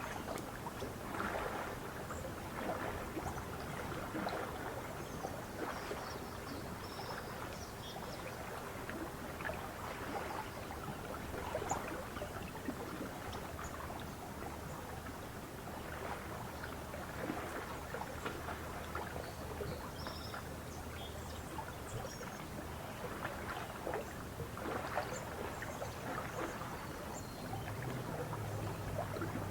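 Lake water lapping and splashing irregularly against the shore, with faint, scattered bird chirps and a low steady hum that comes in near the end.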